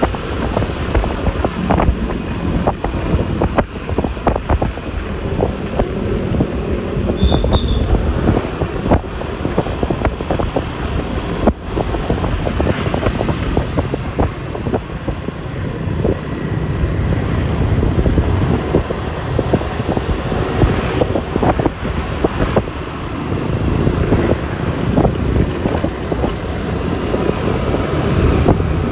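Wind buffeting the microphone over the steady running and road noise of a Yamaha Lexi LX 155 scooter under way, with many small bumps and knocks throughout.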